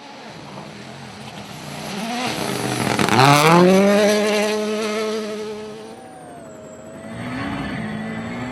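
Rally car engine at full throttle as the car approaches and passes. It is loudest about three seconds in, where the engine note climbs sharply, then holds a steady pitch before easing off near six seconds and picking up again toward the end.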